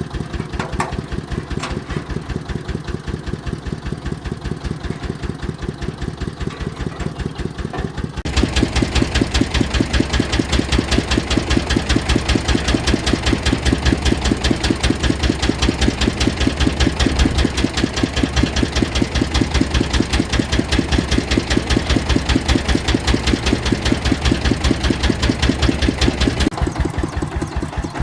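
Engine of a farm machine running with a rapid, even knocking beat, idling at first. About eight seconds in it steps up louder as it is throttled up or put under load, and it falls back to idle near the end.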